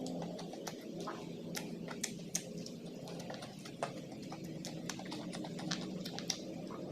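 Close-up chewing and mouth sounds from eating fried chicken and rice: irregular clicks and smacks, several a second, over a faint steady hum.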